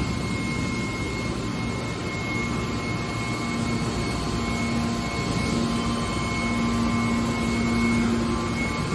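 Car scrap baler machine running: a steady mechanical hum with a low drone that grows stronger about halfway through and a thin high whine over it.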